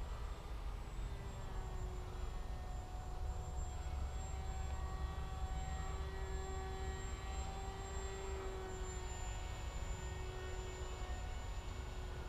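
Electric motor and propeller of a Bixler RC foam plane whining steadily in flight, its pitch rising a little in the middle and settling back, over a constant low rumble.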